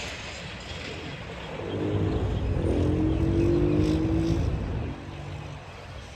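A vehicle engine accelerating: a louder, slightly rising engine tone builds up over about three seconds, then drops off suddenly, over a steady low rumble.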